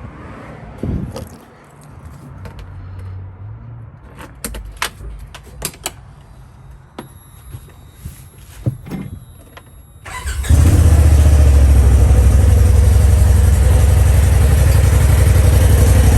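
Keys jangling and a few sharp clicks, then about ten seconds in the 2021 Polaris RZR Turbo S's turbocharged twin-cylinder engine starts and idles loudly through its stock exhaust. The idle has a little bit of a thump to it because the catalytic converter has been removed.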